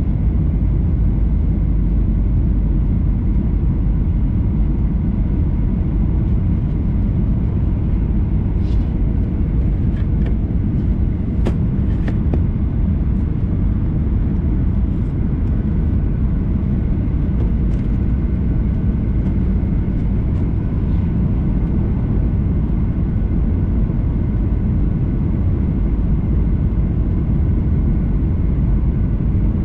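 Steady rumble inside the cabin of a Boeing 737-800 airliner, from its engines and the airflow around it, with a few faint clicks about nine to twelve seconds in.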